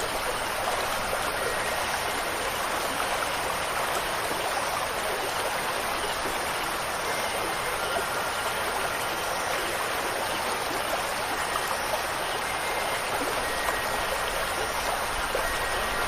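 Steady, even hiss of rushing water, like a stream or falling rain. Near the end a few faint, high, sustained chime notes sound through it.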